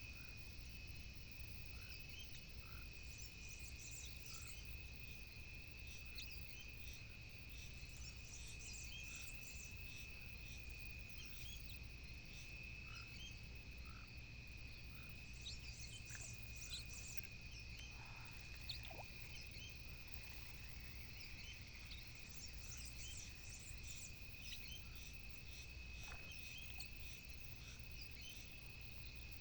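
Faint outdoor night-sound chorus: a steady high-pitched insect trill, with scattered short chirps above it and a low rumble underneath.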